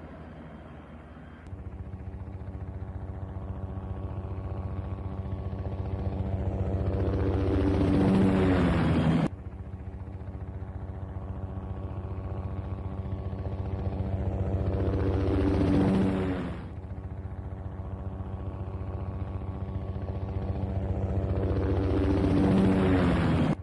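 Helicopter rotor chop from a looped fly-by sound effect. Each time it grows louder as the helicopter approaches, the pitch drops as it passes, and the sound cuts off abruptly; the cycle restarts about three times.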